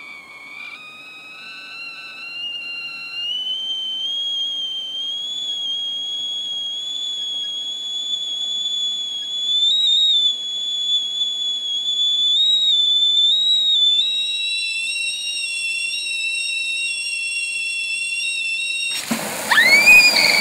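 Tea kettle whistling: a thin whistle that climbs in pitch and grows louder over the first few seconds, then holds with slight wavering. About fourteen seconds in it shifts to a lower, fuller tone. Near the end a sudden loud, harsh burst with wavering shrieks breaks in.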